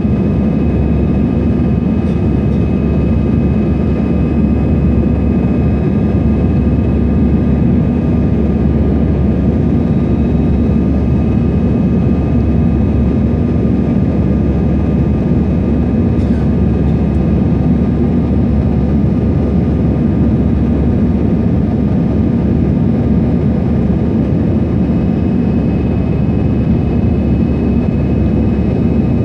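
Airbus A321 jet airliner's engines running steadily at high power: a loud, even rumbling rush with a few faint steady whining tones above it.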